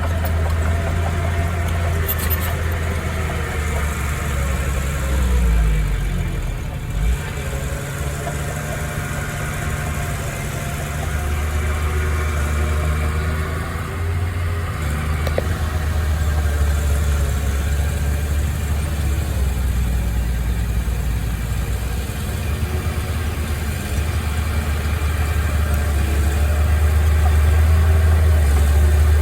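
A heavy machine's engine running continuously, its pitch rising and falling every few seconds as it works.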